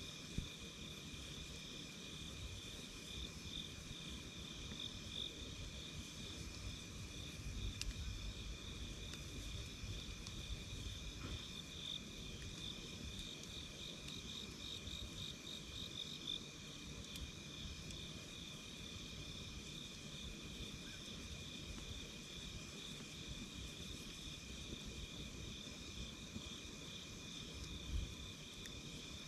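A steady chorus of night insects chirping at two pitches, pulsing continuously, over the low rumble of a campfire. It is broken by a few sharp pops: one just after the start, one about eight seconds in, and one near the end.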